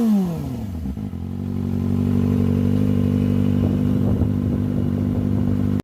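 Sport motorcycle engine dropping from a high rev back to idle over about the first second, then idling steadily.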